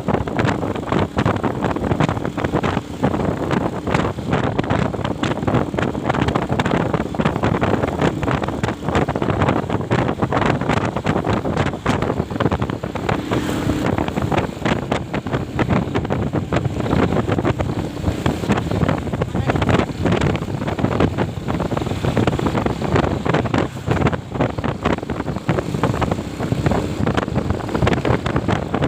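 Wind buffeting the microphone of a moving motorcycle, a steady rushing roar with the engine and road noise running beneath it.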